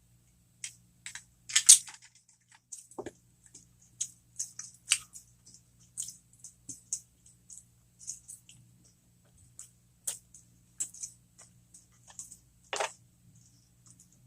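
Close-miked chewing and mouth sounds from eating stuffed jalapeño poppers: irregular wet smacks and clicks, the loudest about two seconds in.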